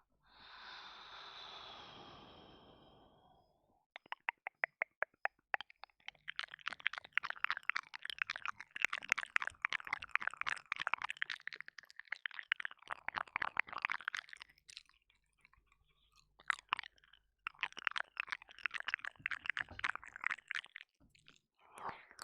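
Close-miked wet mouth sounds for ear-licking ASMR: a soft breathy hiss for the first few seconds, then rapid runs of wet tongue and lip clicks. There is a pause of a few seconds near the middle before a second run.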